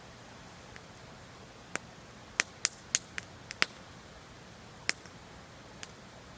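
Wood campfire crackling: sharp, irregular pops, with a quick run of them a couple of seconds in, over a faint steady hiss.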